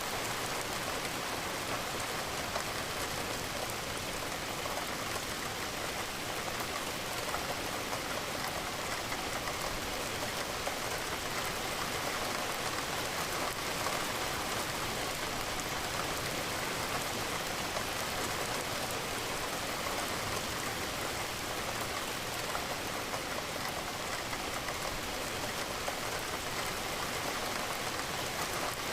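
Steady rain against a window: a continuous, even hiss of drops that does not change.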